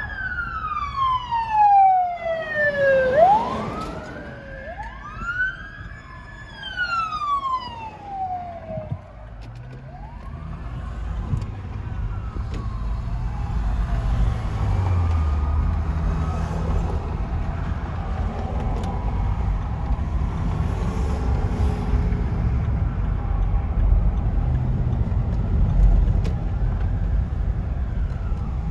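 Fire apparatus sirens wailing: loud sliding tones that sweep down, then rise and fall over the first several seconds. After that comes the growing rumble of heavy fire truck engines as the vehicles go by, with fainter siren wails underneath.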